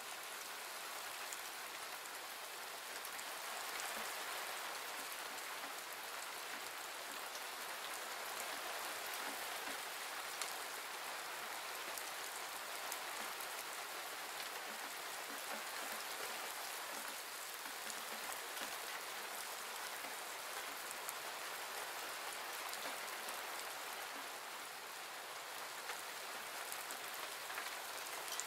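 Steady thunderstorm rain falling on a stone patio and gravel yard: an even hiss with small ticks of single drops, "pretty good rain".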